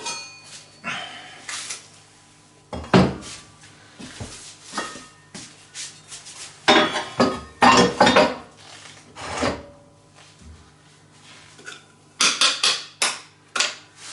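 Hard objects clattering and knocking as they are handled and set down. There are scattered knocks, a cluster of them around the middle, and a quick run of clicks near the end.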